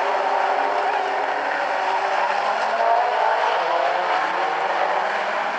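A field of late model stock cars running together on a short oval, many engine notes blending into one steady sound.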